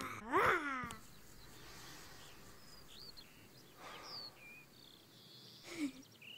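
Faint birds chirping, a scatter of short high calls over low background noise. A child-like voice with falling pitch sounds in the first second.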